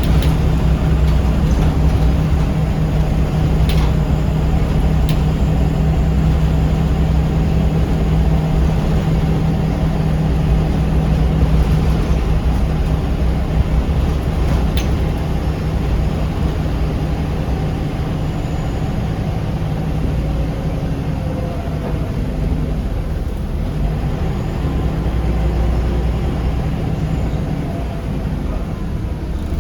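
Scania L94UB bus's diesel engine and drivetrain droning while under way, heard from inside the cabin, with road noise and a few brief rattles. The deep engine hum eases a little after the first third and swells again later on.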